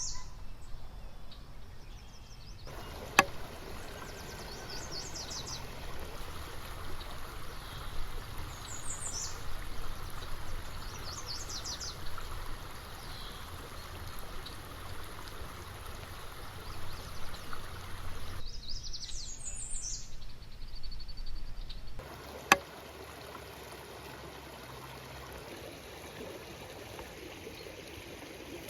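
Outdoor ambience: a steady rush of flowing water with short bird chirps now and then, and a couple of sharp clicks.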